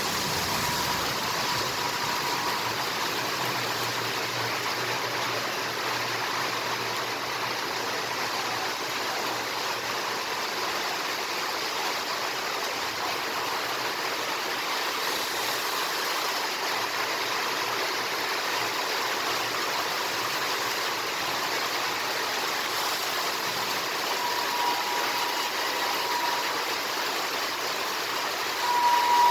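Heavy rain falling with a steady hiss. A faint horn tone from an approaching train is heard near the end.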